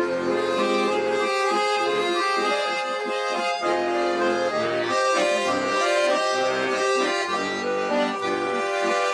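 Accordion playing an instrumental break between sung verses of a slow folk song: a melody over held chords.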